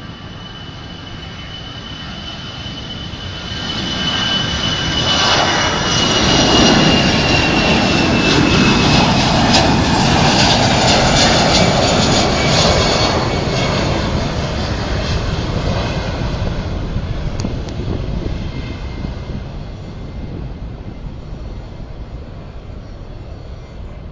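Airbus A320 twin-engine jet airliner taking off and passing by, its engine noise building to a peak and then fading. A high turbine whine falls slowly in pitch as it goes by.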